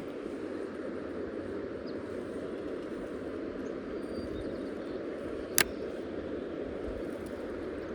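Steady rushing of river water, with a single sharp click about five and a half seconds in.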